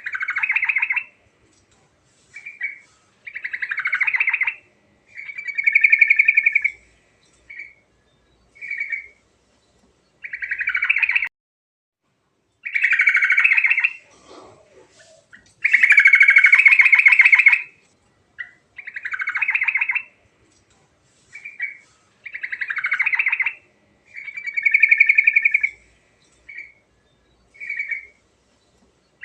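Yellow-vented bulbul (trucuk) singing loud, bubbling song phrases, some short and some lasting a second or two, with short pauses between them; the same run of phrases comes round again about every 19 seconds.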